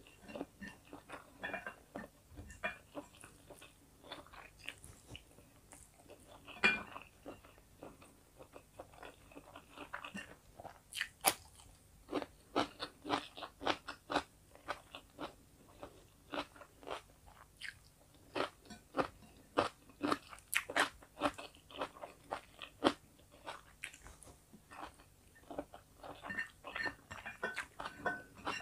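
A person crunching and chewing food up close, mostly bites of fresh cucumber slices, with many short crisp crunches that come thickest through the middle stretch.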